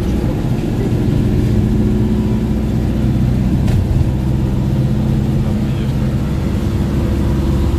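Motor vehicle engine running at a steady speed, with a continuous low road rumble.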